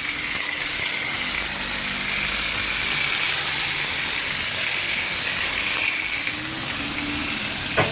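Food frying in a pan with a steady sizzling hiss.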